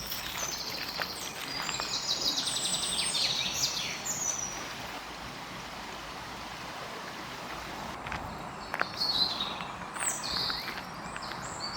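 Birds singing in a park: a dense run of high chirps and trills in the first few seconds, then a quieter spell and a few more short calls near the end, over steady outdoor background noise.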